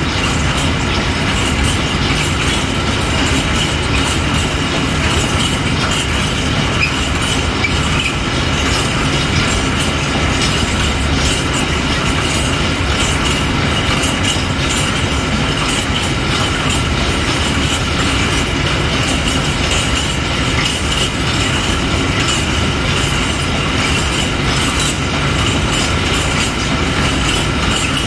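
Long freight train of open wagons rolling past, its steel wheels clattering over the rail joints, with a steady high squeal from the wheels over the rumble.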